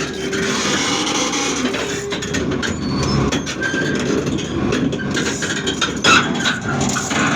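Heavy machinery running steadily, with scattered metallic clanks and short squeals over the rumble.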